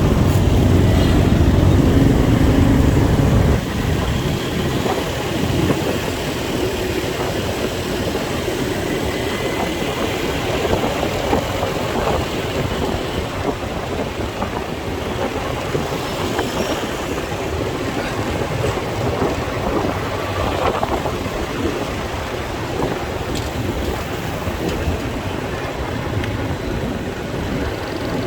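Motorbike riding through city traffic: engine and road noise, heaviest and most rumbling in the first few seconds, then a steady even noise.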